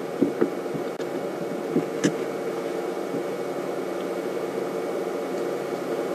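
A steady mechanical hum over hiss, with a few light clicks about a quarter second in and again around two seconds in.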